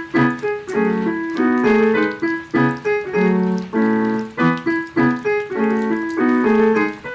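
Slow piano piece played by an amateur on an electronic keyboard: a melody over repeated broken chords, the notes struck one after another without a break.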